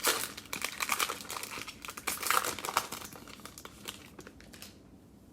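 Crinkling cellophane of a basketball-card cello pack being torn open and handled, a dense crackle that fades out near the end.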